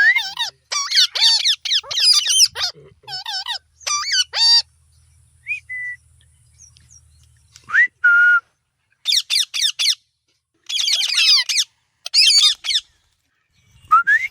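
Pet parrot chattering in quick bursts of wavering, warbling calls, broken by short whistles; about eight seconds in, one whistle rises and levels off into a held note.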